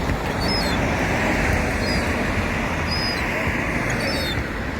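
Young gull giving short, thin, high peeping calls, four of them about a second apart, over a steady background rumble.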